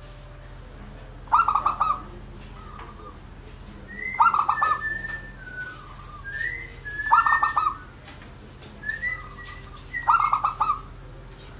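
Zebra dove (perkutut) cooing: four loud bursts of rapid staccato coos about three seconds apart, with thin whistled notes between them.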